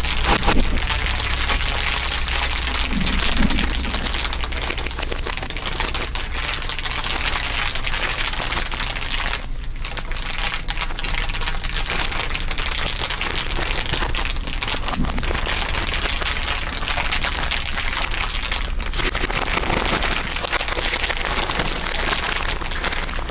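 Dense, continuous crinkling in overlapping layers, a steady crackle of many small ticks.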